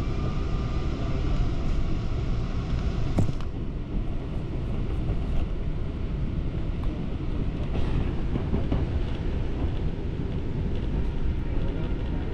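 Passenger train running on the rails, a steady low rumble with one sharp click about three seconds in.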